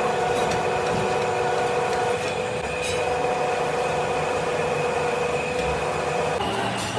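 Metalworking machine tool running during crankshaft machining, a steady whine of several tones over a rough mechanical noise; the tones change suddenly near the end.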